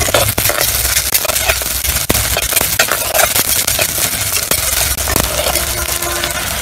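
Chopped onions and garlic frying in oil in a clay pot, crackling and sizzling, while a steel spoon stirs them and clinks and scrapes against the pot.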